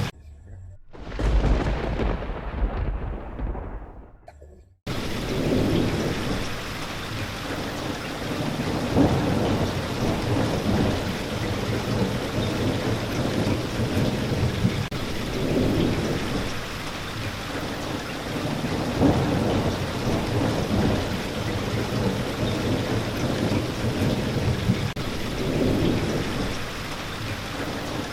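Steady rain with low rolling thunder. Near the start the rain drops out for about a second while a thunder rumble swells and fades away. About five seconds in the rain cuts back in suddenly, like a splice in a looped recording, and then runs on with recurring low rumbles.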